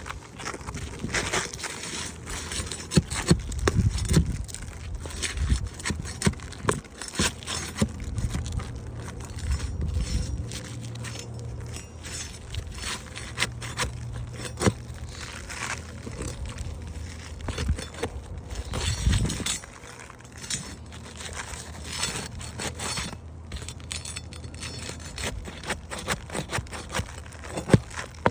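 Asphalt roof shingles being worked loose with a metal tool: irregular scraping and sharp metal clinks as the sealed tabs are broken free and the nails underneath are pried up.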